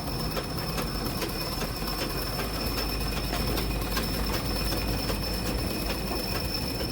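Sewing machine running steadily, stitching the covering sheet: a low hum with a thin high whine and a fast, even ticking.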